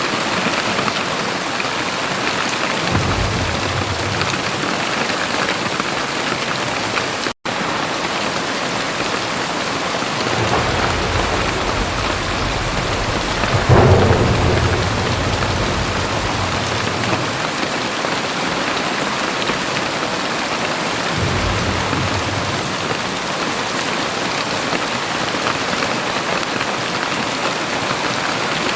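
Very heavy rain pouring steadily, broken by low rumbles of thunder; the loudest rumble swells about fourteen seconds in. The sound drops out for a split second about seven seconds in.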